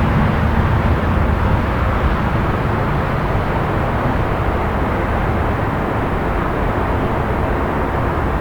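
Steady city traffic rumble at night, a continuous low drone of distant vehicles with no distinct horns or sirens standing out; it eases slightly after the first couple of seconds.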